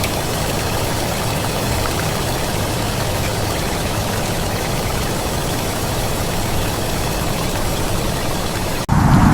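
A vehicle engine running steadily, with a low rumble under an even rain-like hiss. Near the end it cuts suddenly to louder, heavier rain.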